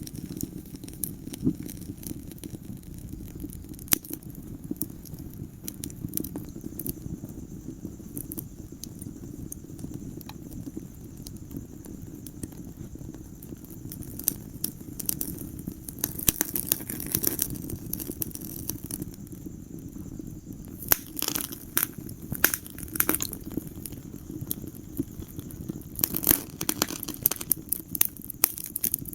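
Wood fire in a fireplace crackling: sharp snaps scattered over a steady low rumble of the flames. The snaps come thicker in bunches about halfway through and again near the end.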